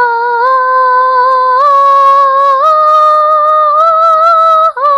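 A high voice singing long held notes, each about a second long and each a small step higher than the one before, with a brief break near the end.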